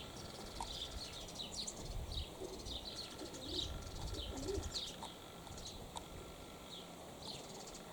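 Small birds chirping over and over in short, high, falling notes, with a little low pigeon cooing near the middle. Low wind rumble on the microphone underneath.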